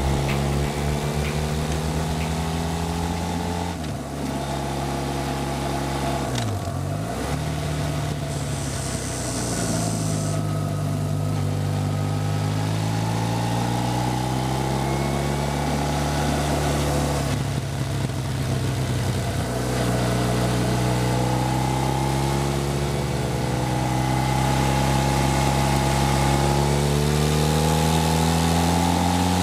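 BMW Rockster boxer-twin motorcycle engine running under way, its pitch rising and falling again and again as the throttle is rolled on and off through the curves. There is a sharp dip and recovery in pitch about seven seconds in.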